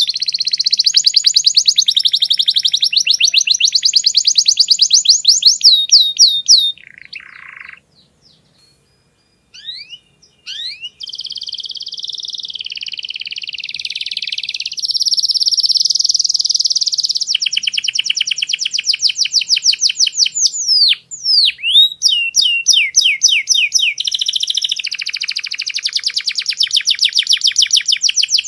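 Domestic canary singing long runs of rapid trills and rolls, changing from one repeated note to another, with a short break about seven seconds in.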